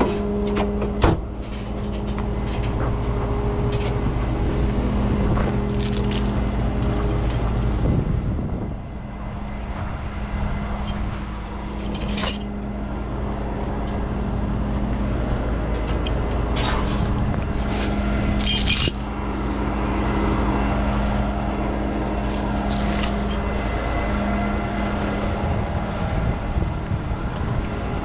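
Heavy truck engine running steadily, with a few sharp metallic clanks and rattles over it.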